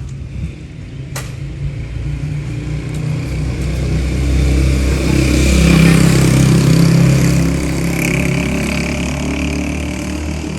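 Motorcycle engine running, its sound building to a peak about six seconds in and then easing off, with a single sharp click about a second in.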